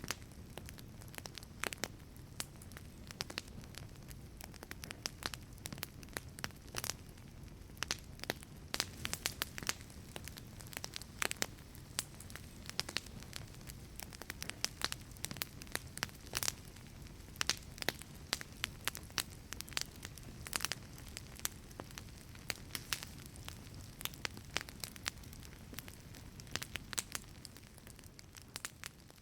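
Wood fire burning in a wood-fired pizza oven: a low steady rumble of flame with frequent sharp crackles and pops from the burning wood.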